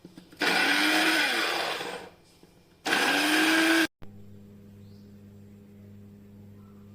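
Electric grinder's motor run in two short pulses, the first about a second and a half and the second about a second, its pitch rising as it spins up each time. After a sudden cut a steady low hum remains.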